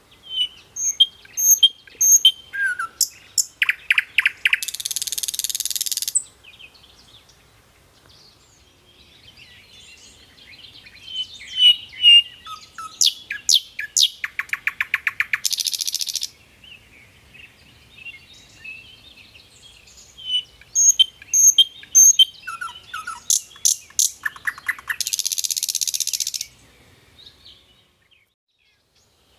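Bird chirps and calls: short tweets and whistles, a fast trill, then a buzzy rasp. The same sequence repeats about every ten seconds, three times.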